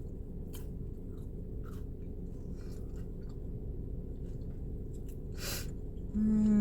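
Close-up chewing of a crunchy fried pie crust, with faint crunches and mouth sounds over a steady low hum. Near the end comes a loud, held hum of the voice.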